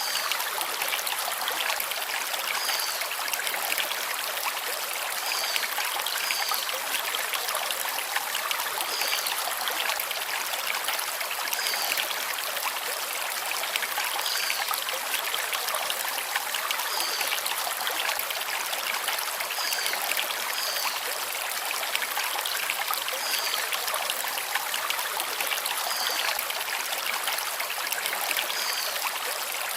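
Forest stream flowing over stones: a steady rush of water, with a short high chirp that comes back every two or three seconds.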